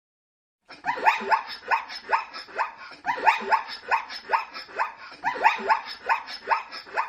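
Zebra calling: a rapid run of short, barking yelps, about three a second, starting under a second in.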